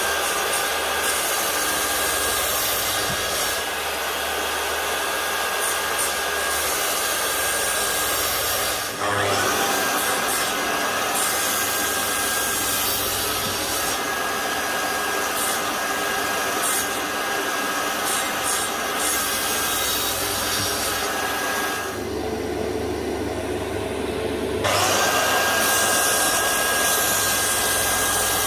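Electric woodworking power tool running continuously while cutting wood, its motor pitch dipping under load and rising back up about nine seconds in and again near the end.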